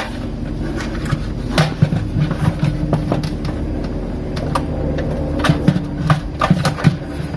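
Scattered clicks and knocks of plastic refrigerator parts and wire connectors being handled and fitted, over a steady low hum.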